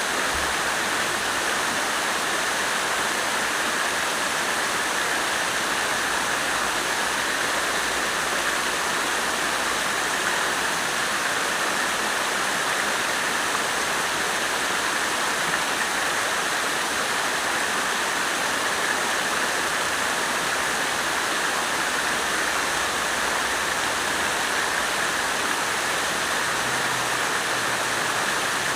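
Garden fountain's water splashing and falling in a steady, unbroken rush.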